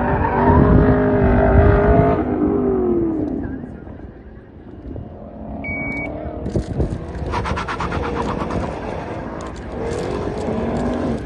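Car engine revving hard through an autocross run, its pitch rising and falling with throttle and gear changes as it passes close. It fades away about four seconds in, then comes back near the end as the car works through the cones again.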